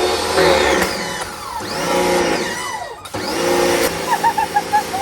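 Electric pressure washer motor running, its whine rising and falling in pitch; it cuts out for a moment about three seconds in and starts straight up again. A few short chirping sounds come near the end.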